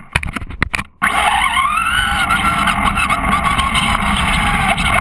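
A few knocks, then about a second in a small propeller aircraft engine starts up and runs loudly, its whine rising and then slowly easing off.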